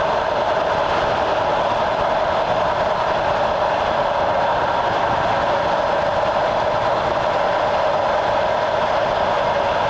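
Steady running noise of a moving train, heard from on board: a continuous rumble and rail noise with no distinct wheel clicks.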